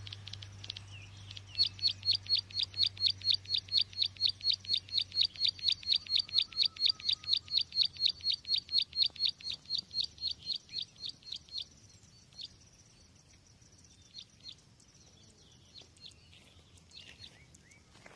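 Lure call of a small songbird sold as ciblek sawah (a prinia): a fast, even series of sharp high chip notes, about five a second. It fades out about two thirds of the way in and gives way to a few faint scattered chirps. A low steady hum runs under the first half.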